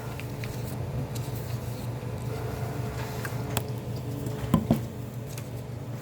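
Meeting-room ambience: a steady low hum, with a few sharp clicks and knocks, the loudest about four and a half seconds in.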